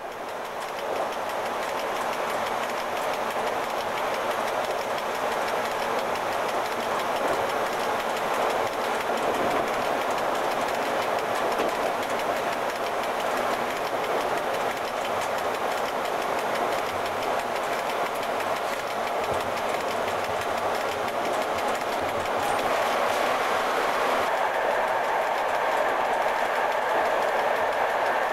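Running noise of an FS E.656 electric locomotive heard from its cab at speed: a steady sound of wheels on rail and machinery, fading in at the start. Near the end the sound grows fuller as the train runs into a tunnel.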